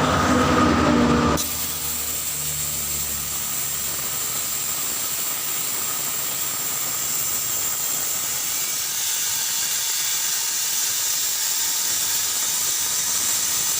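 Steady hiss of compressed air at a truck tyre, after a louder mechanical noise that cuts off about a second and a half in.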